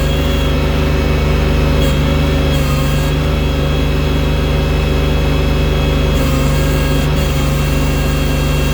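Tractor loader engine running steadily at a fairly even speed.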